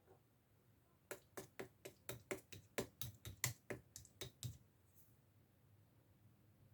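Clear slime with strawberry toppings being pressed and squeezed by hand, giving a quick run of sharp clicking pops, about four a second, that stops short after a few seconds.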